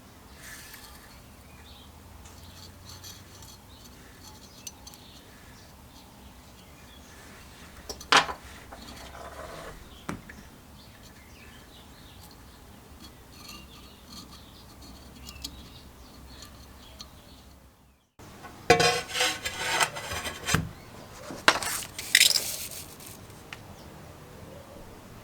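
Small metal carburetor parts clinking and clattering as they are handled on a workbench, with a single sharp clink about eight seconds in and a louder run of rattling and clatter after a brief cut about two-thirds of the way in.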